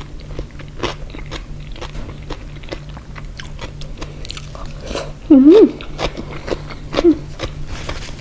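Close-miked chewing of pickled jellyfish and shrimp salad: wet crunching and mouth clicks at an uneven pace. About five seconds in there is one short, loud voiced 'mm' that rises and falls in pitch.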